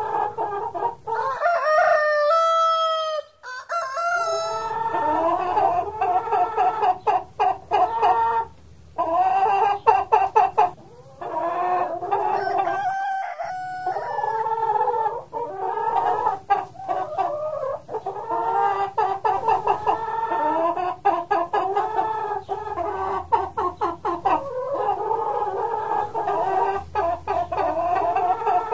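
A flock of chickens clucking continuously, many short overlapping calls, with a longer drawn-out, rising call about two seconds in.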